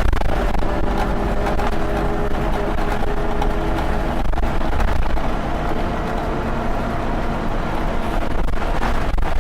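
Scania Omnilink single-deck bus engine running with a steady low rumble, an engine note clearest in the first few seconds.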